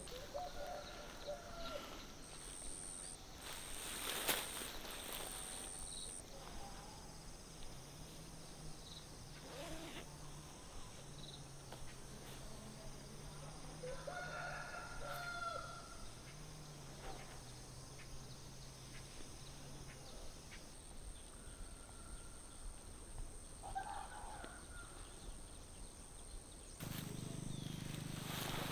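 Three short animal calls, spread well apart, over faint outdoor background, with a couple of sharp knocks in between.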